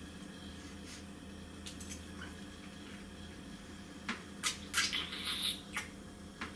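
Person eating: a cluster of short, sharp wet clicks and smacks about four to six seconds in, over a quiet steady room hum.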